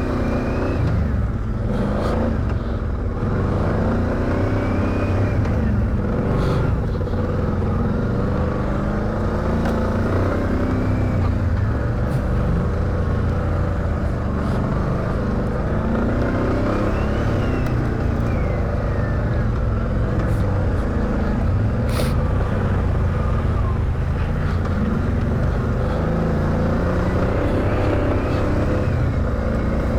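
ATV engine running steadily while riding a trail, its pitch rising and falling with the throttle, with a whine that glides up and down. A few sharp knocks come through, the clearest about a third of the way in and again about two thirds in.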